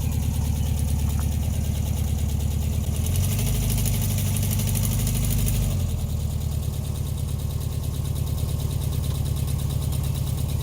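1968 VW Bus's air-cooled flat-four engine idling, revved up for about three seconds partway through, then dropping back to idle.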